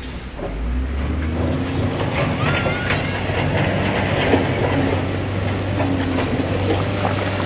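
Heavy earthmoving machinery with a diesel engine running in a steady low drone, and irregular metallic clanks, rattles and brief squeals over it.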